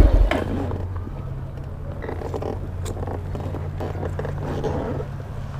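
Honda NC700X motorcycle's parallel-twin engine idling steadily, after a loud low rumble cuts away in the first moment, with a few faint small clicks over it.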